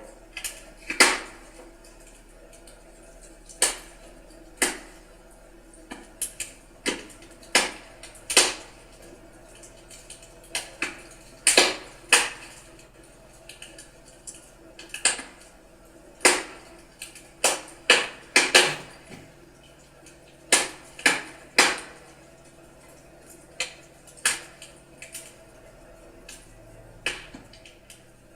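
Burning firewood crackling in a fireplace: irregular sharp pops and snaps, roughly one a second and sometimes several in quick succession, over a faint steady background.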